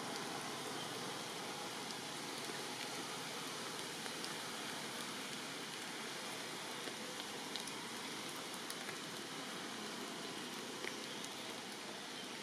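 Steady rainfall, an even hiss of rain falling on foliage and the ground, with a few single drops ticking now and then.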